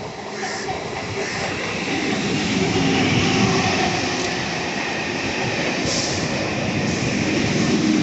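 Local train running at speed through a station without stopping: a steady rumble of wheels on rails that grows louder over the first few seconds, with a few sharp clicks from the track.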